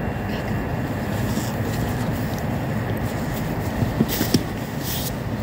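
Steady low rumble of a train approaching along the line in the distance, with a few short clicks about four seconds in.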